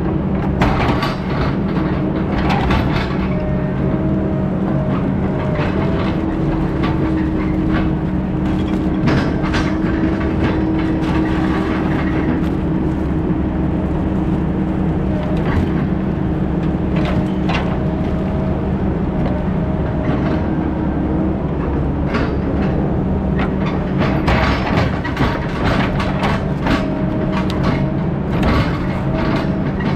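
Heavy diesel engine running steadily, its pitch wavering slightly, with scattered clanks and rattles throughout.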